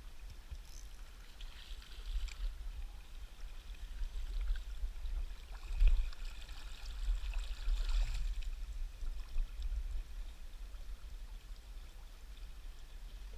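Flowing river water below a power dam, under a constant deep rumble, with the rushing swelling twice and a brief thump about six seconds in.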